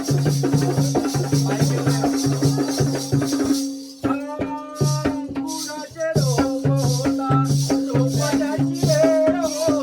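Jakhadi folk music: a drum keeps a steady beat under a held drone, with a rattling jingle on the beats. The music thins out briefly a few seconds in, then comes back with a pitched melody line over the beat.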